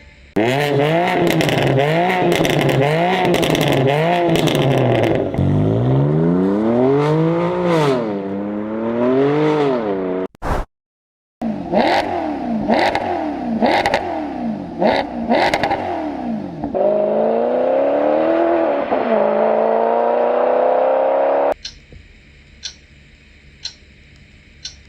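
BMW M4 Competition F82's twin-turbo straight-six revved again and again with pops and crackles. After a brief gap, a Maserati GranTurismo MC Stradale's V8 is revved and then pulls in one long rising run. Near the end, faint clock-like ticking takes over.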